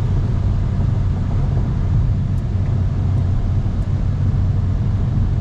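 Small car driving, with a steady low engine drone and road noise heard from inside the cabin.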